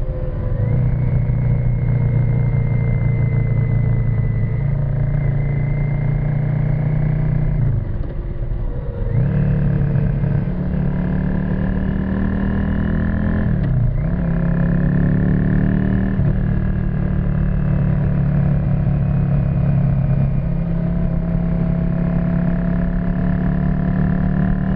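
1991 Yamaha XV535 Virago's air-cooled V-twin with a custom exhaust, running under way at steady throttle. Twice, about eight and fourteen seconds in, the note breaks briefly and picks up again, as at a gear change.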